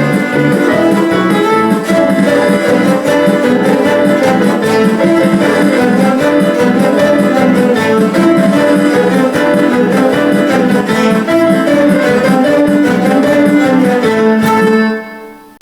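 An ensemble of cellos playing sustained, overlapping bowed notes, which fade out sharply in the last second.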